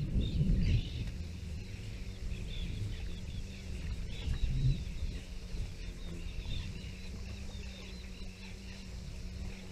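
Birds chirping and calling in the background, over a low rumble of wind on the microphone that is loudest in the first second.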